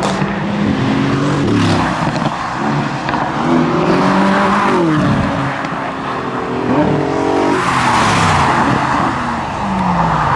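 Several sports-car engines accelerating, their notes climbing and dropping back again and again as they shift up through the gears. A louder rush of engine and road noise comes about eight seconds in.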